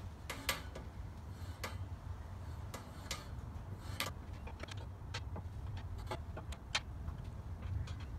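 Irregular metallic clicks and clinks of a screwdriver and spanner working the reel's height-adjusting screw and nylock nut on a Scott Bonnar Model 45 reel mower, about a dozen over a low steady rumble.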